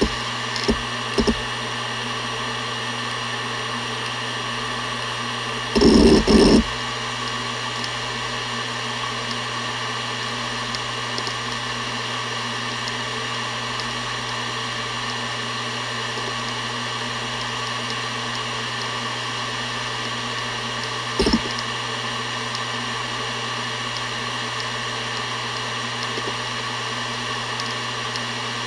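Seagate Barracuda ES.2 ST31000340NS 7200 rpm hard drive spinning with a steady hum and whine. Two short seek noises near the start, a burst of rapid head seeking about six seconds in, and another short seek a little over twenty seconds in.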